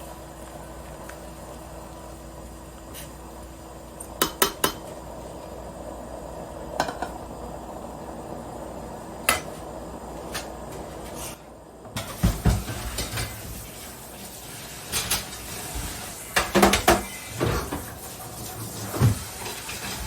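Kitchen clatter of dishes, pots and utensils. In the first half a few sharp clinks sound over a steady low hum. About twelve seconds in it turns busier, with frequent knocks and clanks.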